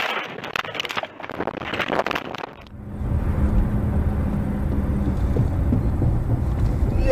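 Vehicle driving noise from a dash camera: a steady low rumble of engine and road, with wind buffeting the microphone, starting abruptly about three seconds in. Before that come dense clicks and knocks.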